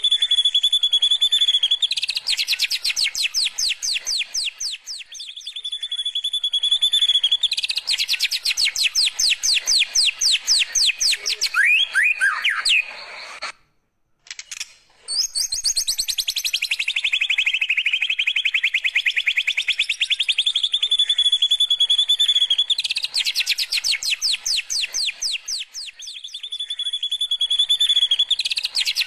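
White-rumped shama (murai batu) singing canary-style song: steady high whistles alternating with long, very fast rolling trills of rapid repeated notes. The song breaks off briefly about halfway through, then resumes.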